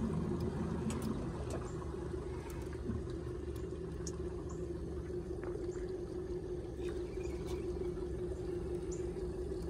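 Boat motor running steadily at low speed with an even hum while the boat is manoeuvred, a few faint ticks over it.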